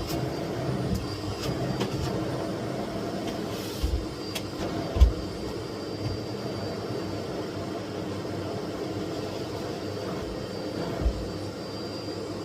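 Miele Blizzard CX1 bagless cylinder vacuum cleaner running steadily with a faint high whistle, its motor hum unbroken while vacuuming. A few dull low knocks come about four, five and eleven seconds in.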